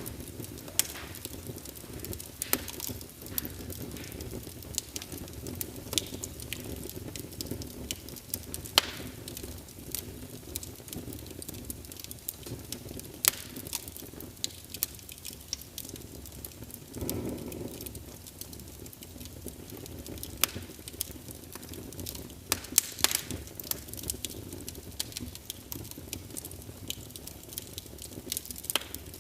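Wood fire crackling: a steady low rush of flame with frequent sharp pops, and a brief louder rush about seventeen seconds in.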